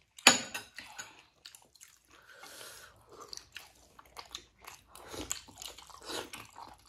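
Chewing steamed momo dumplings, with wet smacking and clicking mouth noises throughout; a sharp smack just after the start is the loudest.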